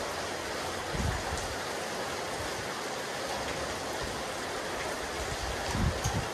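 Steady rain falling on a rooftop terrace: an even hiss of drops, with a few low thumps about a second in and again near the end.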